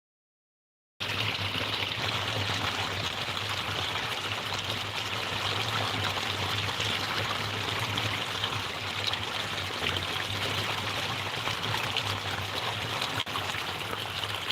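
Steady rush of flowing water, starting about a second in, with a low hum beneath it.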